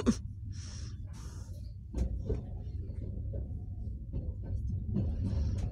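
Steady low rumble of a moving passenger train heard from inside the carriage, with a few sharp knocks, the loudest about two seconds in.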